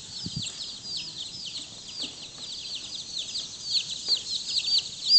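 A brood of Black Jersey Giant baby chicks peeping continuously: many short, high, falling peeps overlapping several times a second.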